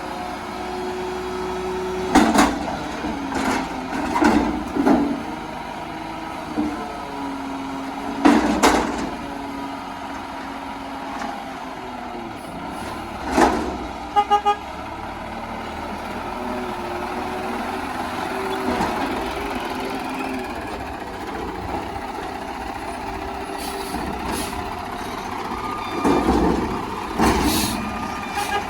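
Front-loader garbage truck running, with several loud sudden bangs and hisses over the engine. There are three quick beeps about halfway through.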